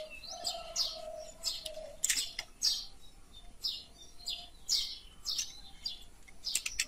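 Small birds chirping, a quick, steady run of short high notes, each dropping in pitch, with a few faint clicks among them.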